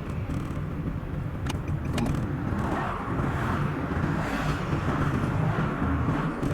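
Steady road and engine noise of a car driving, sped up to double speed, with a couple of faint clicks about a second and a half and two seconds in.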